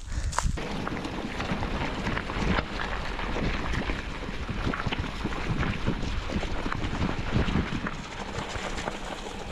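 Moving vehicle on a rough road: steady road noise and wind on the microphone, with frequent small knocks and rattles, starting about half a second in.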